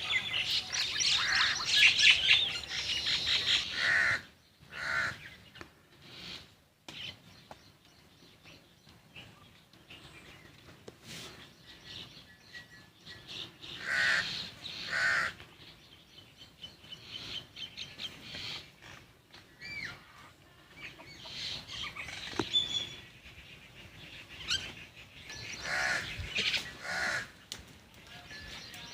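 Crows cawing in short calls, several of them in pairs, with smaller birds chirping. A busy patch of chirping fills the first few seconds.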